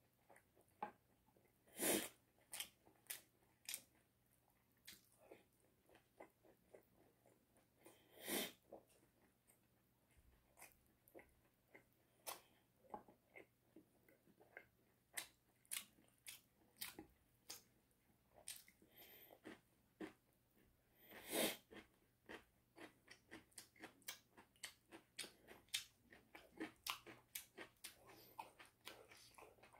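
Someone chewing and biting into oven-roasted chicken: a steady stream of small, irregular crunchy clicks, with three louder bites about two seconds in, at eight and a half seconds and at twenty-one seconds.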